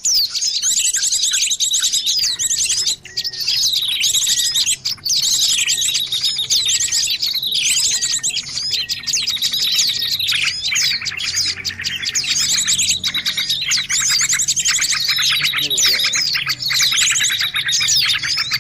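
A dense chorus of many small birds chirping, whistling and trilling over one another without a pause, with fast rattling trills among the calls: a 'noisy' bird-lure (pikat) recording meant to draw in birds of all kinds.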